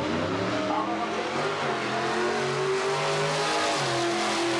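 Car engine accelerating hard on a drag strip, its note climbing and then dropping at a gear change near the end.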